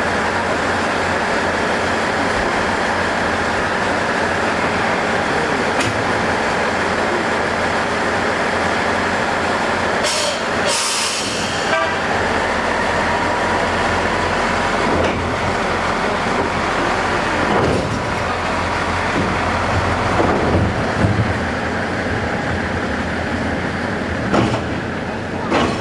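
A railway vehicle at the rail yard's turntable running steadily, a continuous mechanical rumble. A sharp hiss of air comes about ten seconds in, and a few knocks follow near the end.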